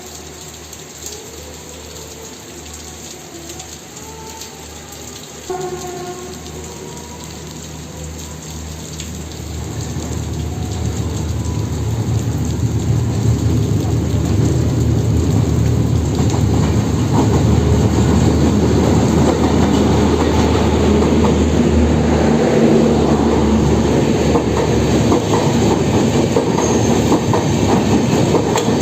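Passenger train hauled by a WAP-4 electric locomotive approaching and passing: a short horn note about five seconds in, then wheel clatter over the rail joints that builds and is loud from about twelve seconds in as the coaches roll by.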